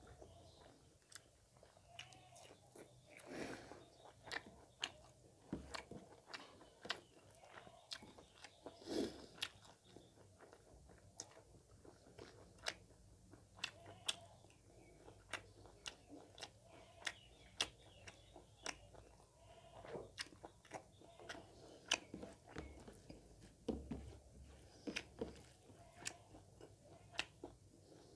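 Close-up mouth sounds of eating rice with pork gravy by hand: chewing and wet lip smacks, with sharp clicks coming irregularly a few times a second.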